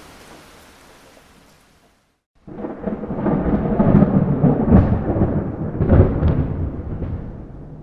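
Steady rain hiss fades out into a moment of silence. About two and a half seconds in, a loud rolling thunderclap starts suddenly, crackling as it rumbles, and dies away near the end.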